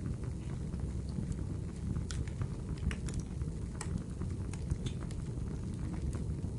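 Wood fire crackling: a steady low rush of flame with frequent sharp pops and snaps scattered throughout.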